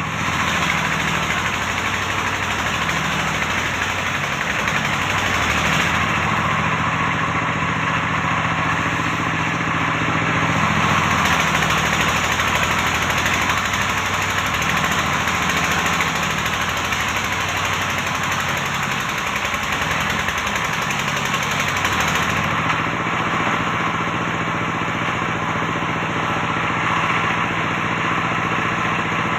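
Engine-driven antique circular saw running, its engine note shifting up and down over a steady hiss.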